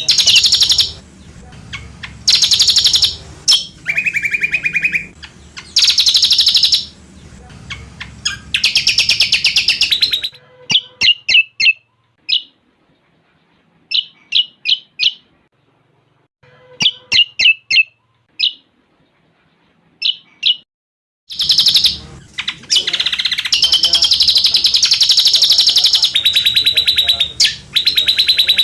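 Cucak combok song: blocks of very fast, buzzy trilled phrases, then a sparser middle stretch of short separate chirps with pauses between them. Continuous rapid trilling resumes about two-thirds of the way through.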